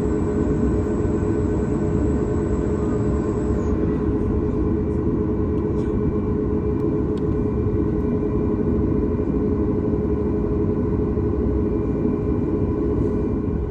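Boeing 737 MAX 9's CFM LEAP-1B engines idling, heard inside the cabin as a steady hum with several held tones over a low rumble. A faint high whine stops about four seconds in.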